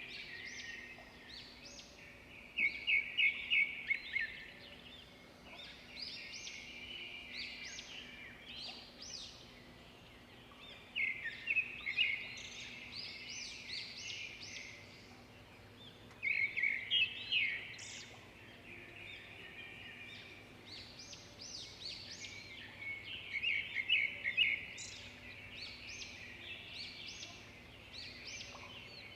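Songbirds chirping steadily, with a louder run of quick repeated chirps four times, roughly every six to seven seconds.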